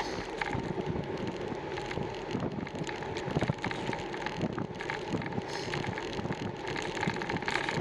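Wind rushing over the microphone of a camera on a moving bicycle, with small rattles and clicks from the bike as it rolls along.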